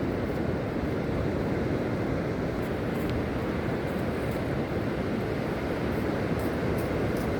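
Steady noise of surf washing on the beach, mixed with wind rumbling on the microphone.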